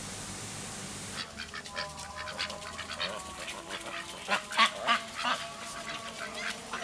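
A flock of birds calling at once: many short, overlapping calls that start about a second in, after a steady hiss.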